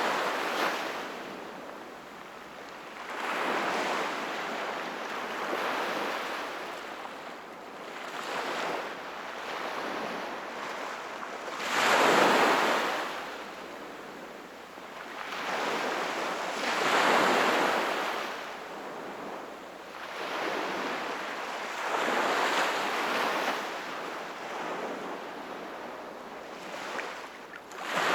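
Sea waves washing in, the sound swelling and ebbing every few seconds, with the biggest surges about twelve and seventeen seconds in.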